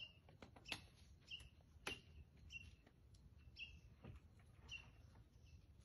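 Faint bird chirping: one short, high call repeated about once a second, with a few faint clicks in between.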